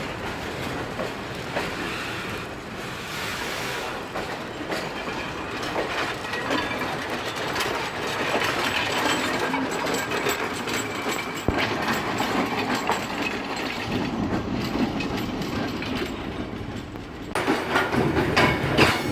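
Freight train of flour wagons rolling past on departure, the wheels clattering over the rail joints, with a louder, deeper rumble starting about two seconds before the end.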